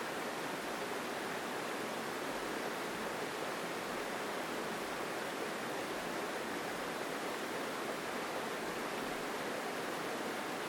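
Mountain stream flowing through forest: a strong, steady rush of water that holds even throughout.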